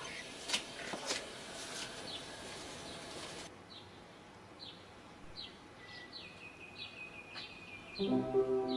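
A few sharp clicks, then a bird's short falling chirps repeating evenly about every two-thirds of a second, with a thin held whistle partway through. Music starts near the end.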